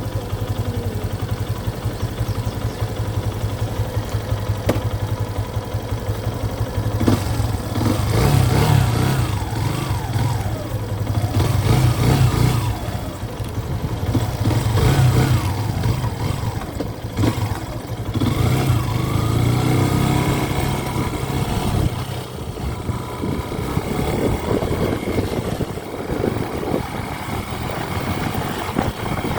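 A vehicle's engine running while driving, with road noise. The engine note swells up and down several times, then settles lower about two-thirds of the way through.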